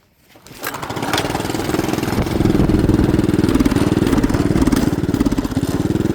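212 cc single-cylinder small engine starting up about half a second in, then running with a slightly wavering speed. It is running unhappily after a spill in the snow: "this baby ain't loving life."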